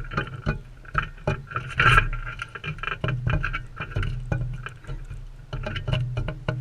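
Crimson rosellas feeding close to the microphone: irregular beak clicks and taps over a steady low hum, with a louder burst about two seconds in.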